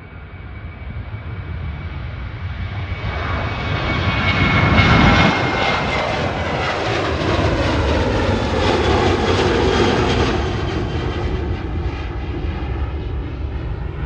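Qantas airliner's engines at take-off power, growing louder to a peak about five seconds in as it passes, then dropping in pitch and slowly fading as it climbs away.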